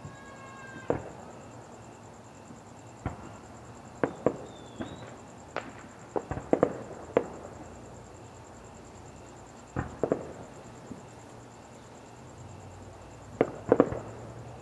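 Fireworks shells bursting in an irregular series of sharp bangs, each with a short echo. The bangs sometimes come in quick clusters of two or three, the loudest near the end.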